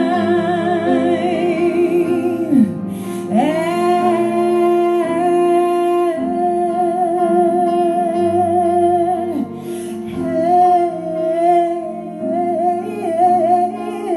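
A woman's voice singing long held notes with wide vibrato over piano accompaniment. The voice drops and rises into a new sustained note about three seconds in.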